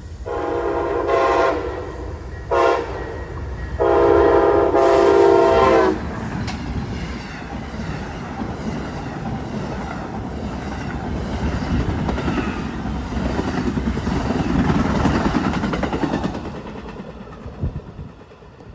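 Amtrak passenger train's locomotive air horn sounding a long, a short and a long blast, a chord of several notes: the end of the grade-crossing signal. The train then passes with a steady rumble and clatter of wheels on rail, building and then fading away near the end.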